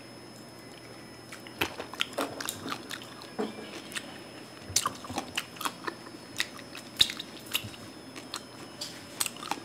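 Close-up crunching and chewing of crispy deep-fried pig's head, its crackling skin breaking between the teeth. Irregular sharp crunches start about a second and a half in and keep going.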